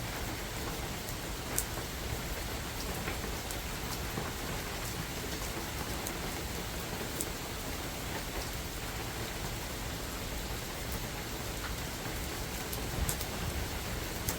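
Steady rain falling on a forest, with an even hiss and occasional sharp drips striking close to the microphone.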